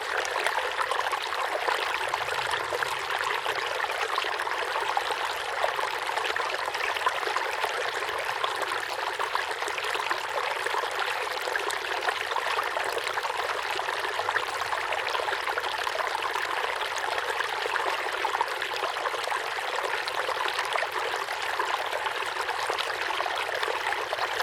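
Forest river flowing steadily over rocks, a constant rush of water with fine splashing ripples.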